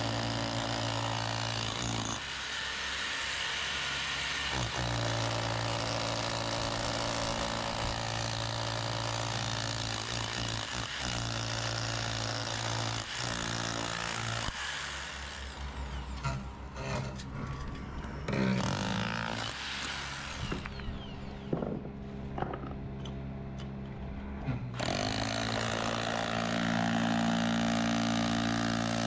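Power drill running as it bores through a thick stone wall. The motor runs steadily, then in the second half dies down and winds back up a few times, with scattered knocks, before running steadily again near the end.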